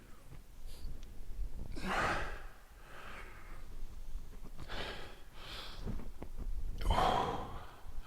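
A man breathing hard after strenuous exercise, with a run of heavy exhalations and gasps, the loudest near the end.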